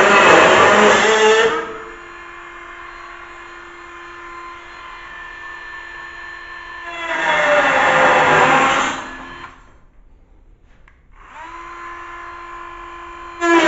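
Handheld high-speed power tool cutting rusted sheet metal in bursts, its pitch sagging under load. Between cuts it runs freely with a steady whine, spins briefly down and up again, and bites back in at the end.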